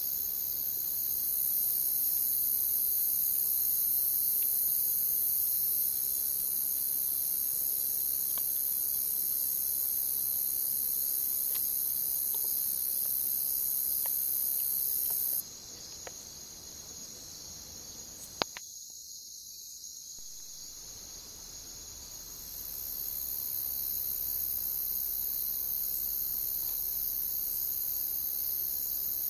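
Crickets chirring in a dense, steady high chorus, with a few sharp crackles from a burning wood campfire. The highest part of the chorus drops away about halfway through and returns near the end, and one louder crack comes about two-thirds of the way in.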